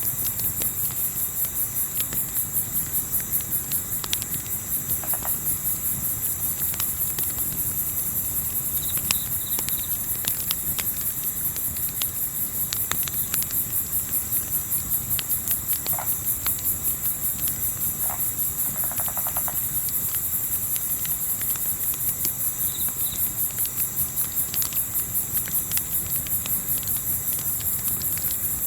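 Crickets chirping in a steady, rapid, even pulse over a campfire crackling with scattered sharp pops. A soft low rumble of wind runs underneath, and there are a few short faint calls near the middle.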